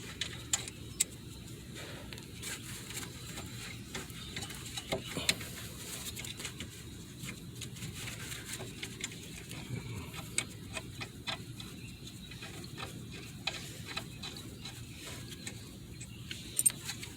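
Light, irregular metallic clicks and clinks from a socket wrench working on a front brake caliper, as the caliper's two 14 mm bolts are backed out and the caliper is freed.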